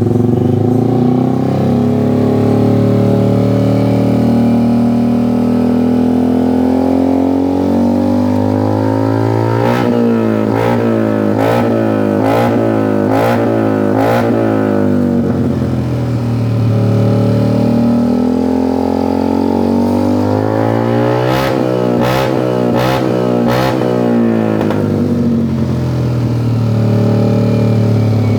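Yamaha Aerox scooter's single-cylinder engine breathing through a Cobra aftermarket racing exhaust, idling steadily. It is revved in two spells of quick throttle blips, roughly a third and three-quarters of the way through, each time dropping back to idle.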